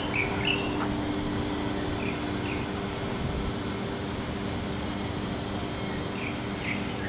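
Steady outdoor city ambience: a constant rumble and hum of traffic and machinery, with short high chirps twice near the start, twice in the middle and twice near the end.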